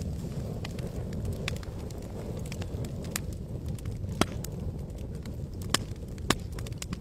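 Campfire crackling: about half a dozen sharp pops of burning wood, the loudest in the second half, over a steady low rush.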